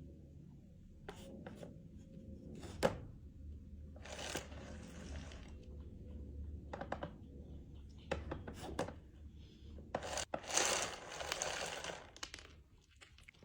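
A kitten eating: small chewing and mouth clicks, with two longer rustling stretches, one about four seconds in and one near the end.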